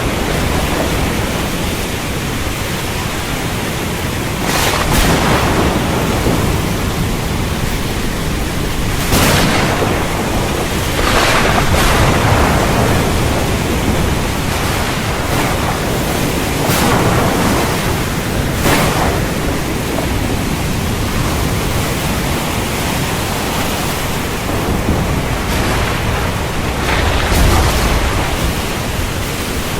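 Heavy, steady rain with thunder rumbling. Several brief louder surges come a few seconds apart.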